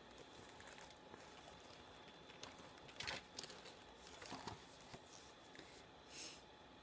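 Near silence broken by a few faint rustles and taps, about three seconds in, again a second and a half later, and near the end: paper and plastic album packaging being handled.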